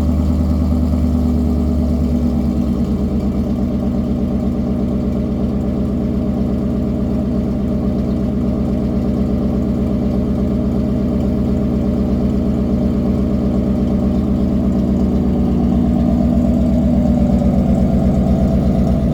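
2019 Ford F-150's 5.0 V8 idling steadily through a cat-deleted exhaust with a Corsa Pro Series muffler and the stock resonator. The idle gets a little louder near the end.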